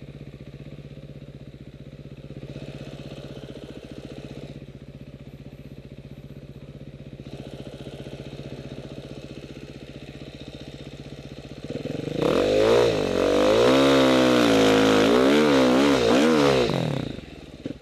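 Enduro motorcycle engine running steadily at low revs, then revving hard for several seconds about two-thirds of the way in, its pitch swinging up and down with the throttle, before dropping off abruptly near the end.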